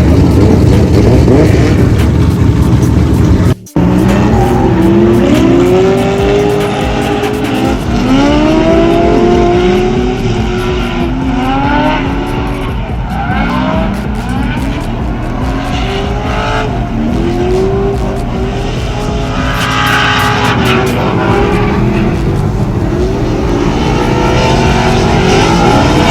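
Drift cars on track, their engines revving up and down over and over as they slide, with tyre squeal under the engine noise. The sound cuts out for a moment a few seconds in.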